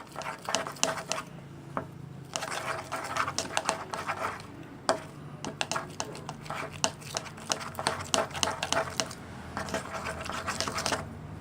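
Sticky homemade PVA-glue slime being stirred in a container: a rapid, irregular run of wet clicks, pops and scrapes, with a short pause a little after the start.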